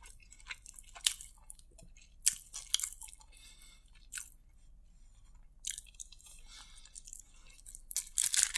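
Close-miked chewing of a mouthful of fried rice: sparse wet mouth clicks and small crunches, with a few louder ones.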